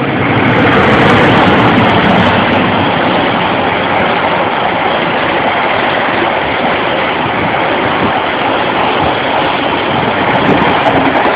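Sancaka Pagi passenger train running through a station at speed without stopping: a loud, steady rush of wheels on rails as the carriages pass.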